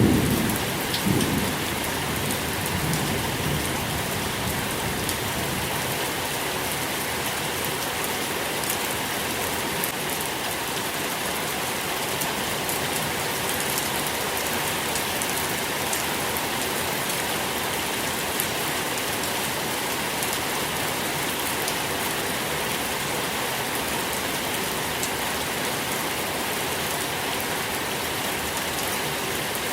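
Steady rain falling, an even hiss. A low rumble of thunder dies away in the first few seconds.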